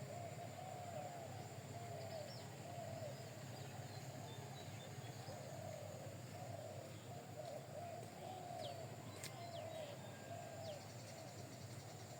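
Birds calling: a continuous run of short, repeated low arched calls, with a few thin high chirps scattered over them and a steady low hum beneath.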